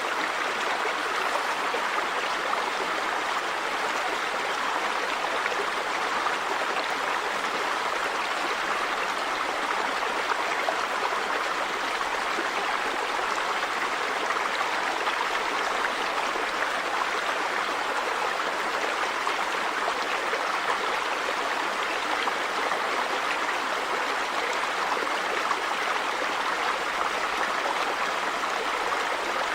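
River water running over rocks, a steady rushing and gurgling that holds even throughout.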